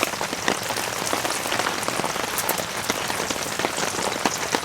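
Heavy rain falling on a tent: a steady dense patter of many small drop hits.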